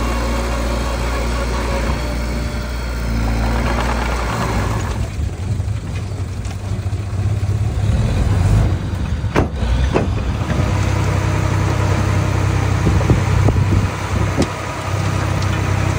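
Mini bulldozer's diesel engine running under load; its note changes about four seconds in, with a few sharp knocks near the middle.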